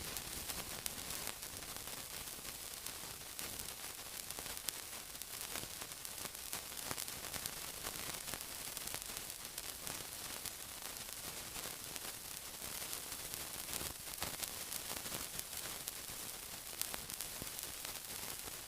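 Steady sizzling hiss with many small crackles and pops scattered through it.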